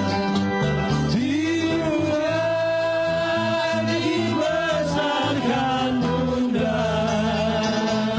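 Live music: a singer's melody with held, wavering notes over a band with a stepping bass line, with angklung (shaken bamboo rattles) played along.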